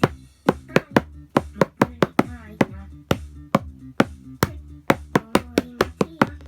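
Sharp, dry percussive taps struck in a steady rhythm, about four a second, played along with a music backing track.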